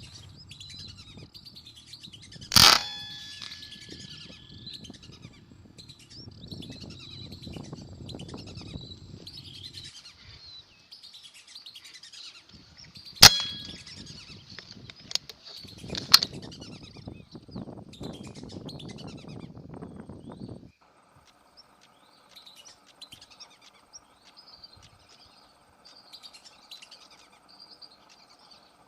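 Wild birds chirping and calling throughout, broken by three sharp shot cracks about 2.5, 13 and 16 seconds in. A low rumble under the first two-thirds cuts off abruptly about 21 seconds in, and a faint steady hum takes over while the chirping goes on.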